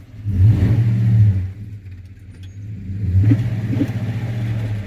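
Pickup truck engine revving hard in two surges a couple of seconds apart, dropping back toward idle between them, as the truck strains under load pulling on an old building.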